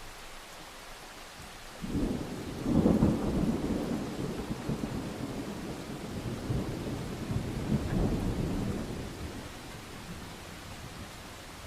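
A thunderclap rolls in over steady rain: a sudden low rumble about two seconds in, loudest just after, swelling once more near the end and dying away, while the rain keeps up its even hiss.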